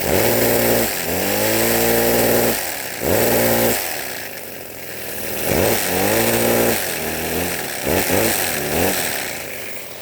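Lego vacuum-powered inline two-cylinder engine with butterfly and poppet valves running in about five surges, its buzzing pitch sweeping up and down as it revs and slows, over a steady hiss.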